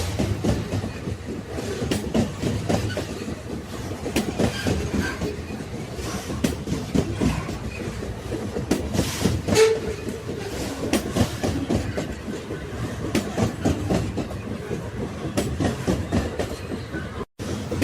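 Railway wagons running along the track: a steady low rumble with dense rattling and knocking of wheels on rails and the cars' couplings and bodies. The sound cuts out for a split second near the end.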